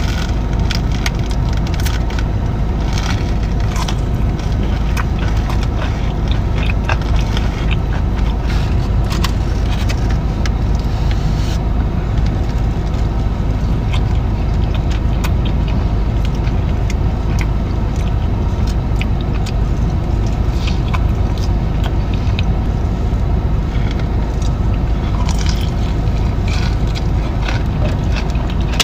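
Close-up chewing and crunching of breaded boneless chicken wings, many short crackles, over a steady low rumble from inside a car.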